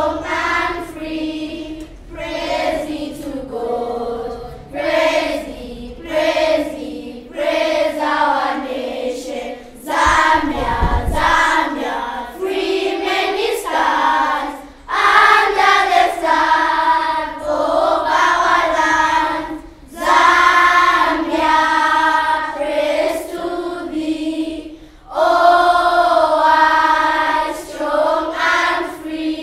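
Group of schoolgirls singing together in chorus, unaccompanied, in short phrases with brief breaks between them. A brief low thump comes about ten seconds in.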